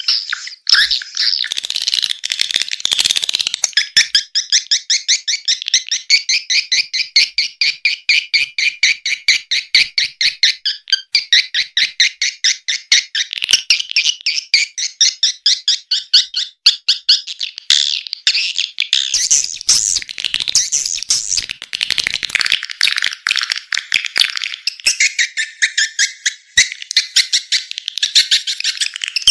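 Swiftlet calling sound: a lure recording of swiftlet twittering, rapid, evenly repeated high chirps in a continuous stream, the kind played through tweeters to draw swiftlets into a nesting house.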